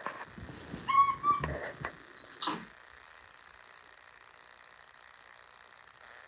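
Capuchin monkey giving a couple of short, high, squeaky calls about a second in, among a few knocks, then a quick downward-sweeping squeak. After about three seconds only faint room noise remains.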